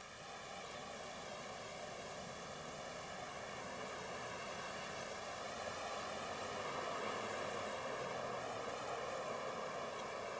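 Steady rushing noise that slowly grows louder, over a faint wavering hum of many evenly spaced tones.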